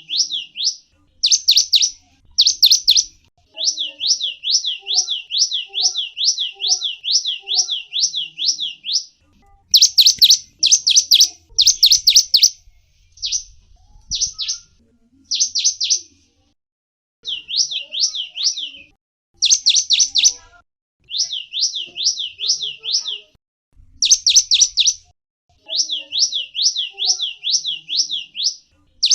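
A gelatik wingko, a small songbird, calling in runs of quick, high, down-slurred chirps, about four or five a second. The runs last one to several seconds with short pauses between them, and are loudest around ten to twelve seconds in and again around twenty seconds.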